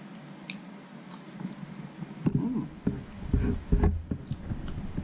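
A man chewing a mouthful of crunchy, batter-coated fried sand smelt at close range, with wet mouth sounds. It is quieter at first with a few faint clicks and gets louder and more irregular about two seconds in.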